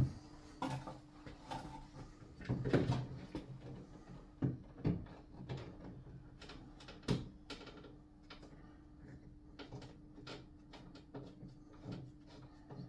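Irregular knocks, clicks and scrapes of hand work on a shower enclosure while screws are fitted with a screwdriver. A cluster of knocks comes about three seconds in and a sharp single knock about seven seconds in, over a faint steady hum.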